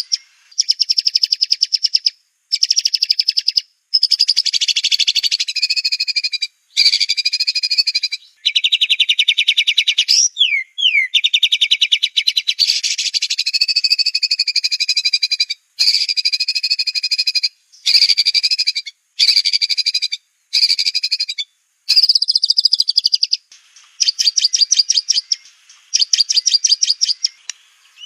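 White-rumped shama (murai batu) singing rapid-fire 'tembakan' phrases: fast buzzy trills in bursts of one to two seconds, separated by short gaps, with a few quick falling whistles about ten seconds in.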